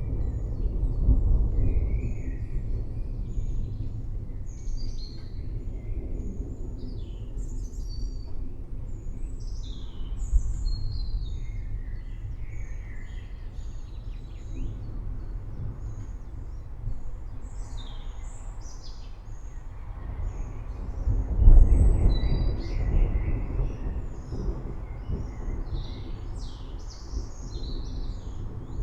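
Low rumbling thunder that swells about a second in and again, louder, about two-thirds of the way through, with many birds chirping and calling throughout.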